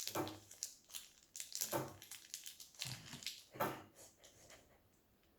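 Plastic toy packaging crinkling and crackling in irregular bursts as it is handled and opened. It stops about four and a half seconds in.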